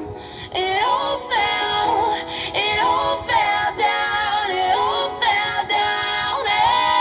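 A synthesized female singing voice sings a melody of held notes over music, stepping between pitches with short breaks.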